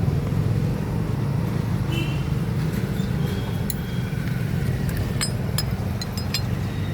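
Motorcycle engine running steadily at idle, with several light metallic clinks in the second half.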